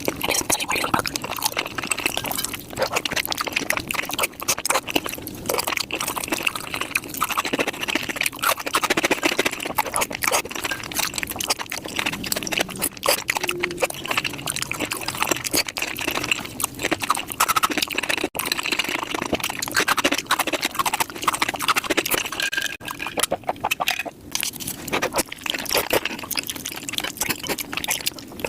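Close-miked eating sounds sped up five times: a dense, rapid run of wet slurping, smacking and chewing clicks from a person eating noodles and rice cakes.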